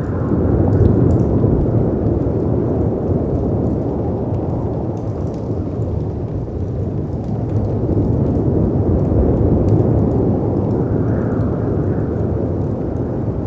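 Storm ambience of wind and sea waves breaking: a dense low wash that swells about a second in and again around eight seconds, with faint crackles of a log fire over it.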